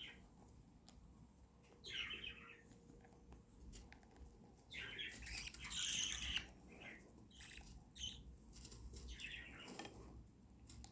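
Budgerigars chirping in short scattered bursts, with light clicks between them and a louder flurry of fluttering about five seconds in.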